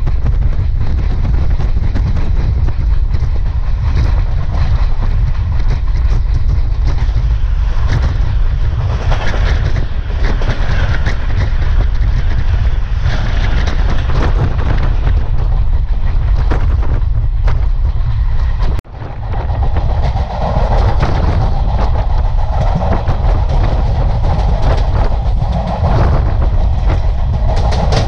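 Steady rumble and clickety-clack of a fast passenger train's wheels over the rails, heard from an open door with wind buffeting the microphone. Midway, a train on the adjacent track passes close by, adding a louder, brighter rush for several seconds. The sound cuts out for a moment about nineteen seconds in.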